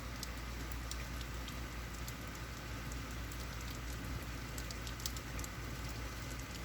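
Heavy rain falling steadily, with the close patter of individual drops striking a nearby surface.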